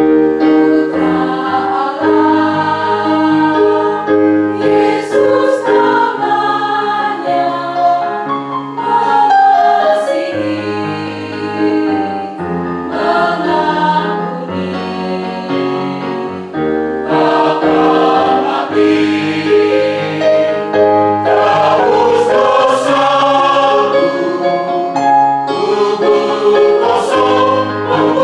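Church choir singing a Christian hymn, several voices together in sustained chords.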